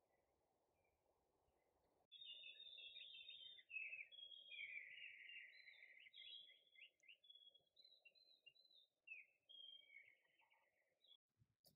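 A songbird singing a long, fast twittering song of quick trills and chattering phrases, starting about two seconds in, over a faint steady low hum of outdoor background noise.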